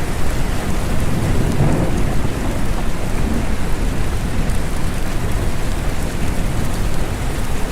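Steady rain with a lot of low-pitched noise under it, swelling briefly about two seconds in.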